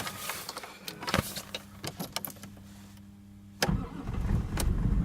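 Toyota 1G-FE straight-six, starting in deep cold: a few scattered clicks, then about three and a half seconds in the engine catches with a sudden low rumble that grows louder as it settles into a fast idle. This is a cold start at minus 40.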